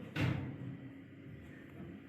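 A single dull thump about a fifth of a second in, fading out over half a second, over a faint steady hum.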